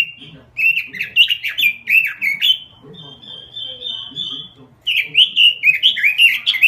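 Pekin robin (red-billed leiothrix) singing loudly: quick runs of sliding whistled notes, a steady even trill about halfway through, then another burst of rapid phrases, over a faint low hum.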